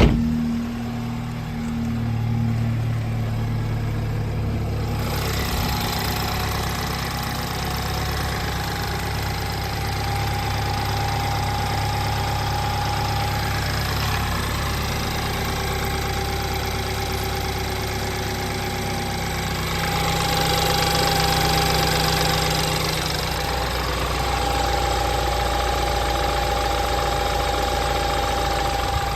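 BMW 328xi's straight-six engine idling steadily after a cold start. Its sound changes a little about five seconds in and swells slightly about twenty seconds in.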